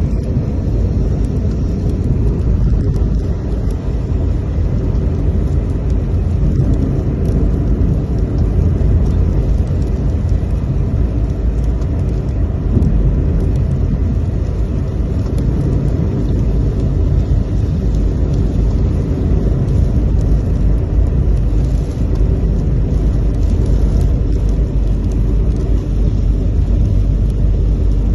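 Steady low rumble, a loud noisy roar concentrated in the bass with no distinct events.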